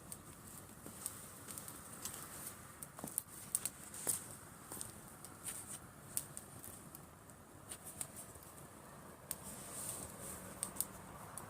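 Driftwood campfire burning, crackling with irregular sharp snaps and pops, a few louder pops a little past a third of the way in, over a soft steady hiss.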